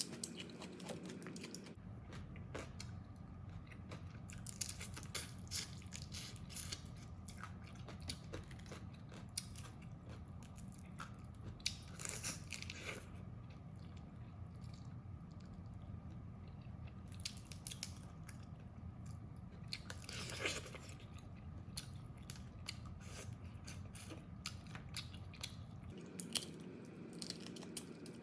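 Close-miked eating of crab: biting and chewing, with irregular crunching and cracking of shell, over a low steady hum.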